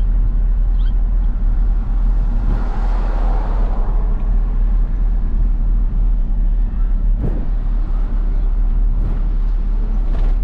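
Isuzu FRR90 truck's four-cylinder diesel engine running steadily at road speed, with tyre and road noise, a loud constant low rumble.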